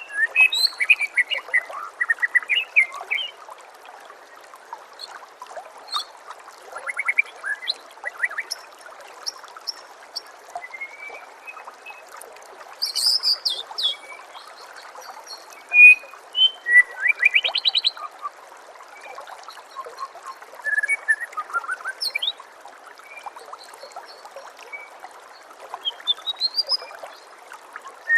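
White-rumped shama and other songbirds singing in short, varied, sliding phrases and chirps, with a louder high burst about halfway through. A steady trickle of running water runs underneath.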